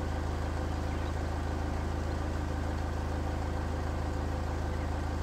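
Car engine idling steadily, a low even hum with no change.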